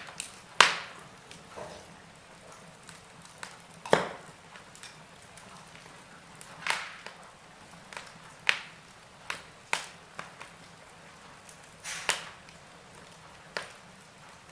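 Wood fire crackling in a fireplace: irregular sharp pops and snaps every second or two, with smaller ticks between them over a faint hiss.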